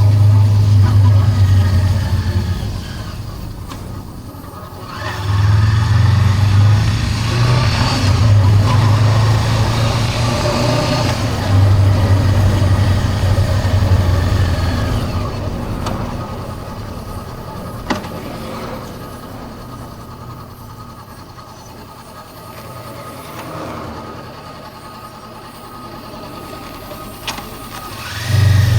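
Honda CB400X parallel-twin engine running on the road, loud and steady in several stretches, easing off to a quieter run for about ten seconds in the second half, then loud again at the very end. A single sharp click comes about 18 seconds in.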